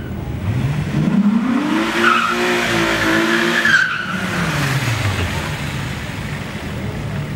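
Volkswagen Corrado's stock, naturally aspirated VR6 engine revving hard as the car launches: the pitch climbs for about a second and a half, holds, then drops away about four seconds in. Tyres squeal over the top as it corners.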